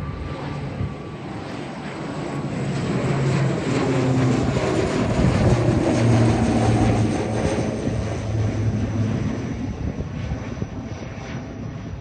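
Aircraft engines passing overhead. The sound swells to a peak about halfway through, then fades, with a steady low drone under the rush.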